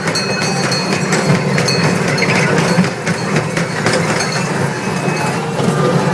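Small carnival ride train rattling and clinking along as it runs, with many quick clicks over a steady low hum.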